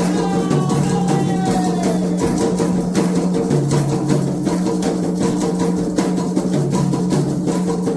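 Candomblé atabaque hand drums playing a dense, fast ritual rhythm over a steady low tone, with a few falling pitched glides in the first two seconds.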